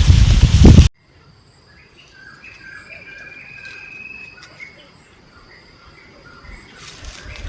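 A loud rushing noise cuts off abruptly about a second in, giving way to insects trilling steadily at a high pitch and birds chirping, with countryside ambience.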